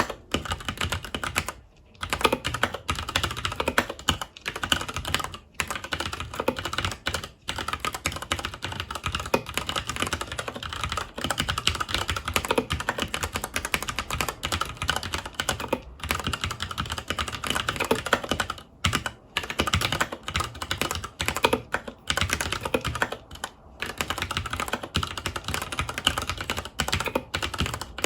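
Continuous fast typing on a FILCO Majestouch 2 tenkeyless mechanical keyboard with Cherry MX Brown switches: a dense run of key clacks, broken by a few brief pauses.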